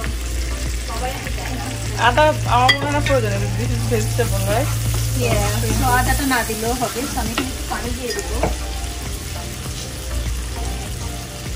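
Spiced curry base frying and sizzling in a pan on the stove while it is stirred.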